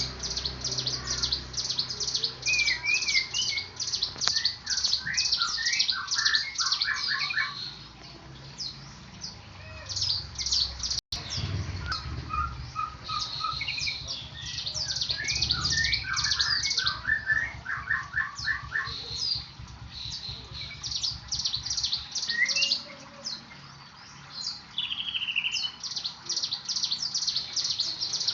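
Songbirds chirping and trilling: a dense run of rapid, high chirps, with lower trilled phrases in between. The sound cuts out for an instant about eleven seconds in.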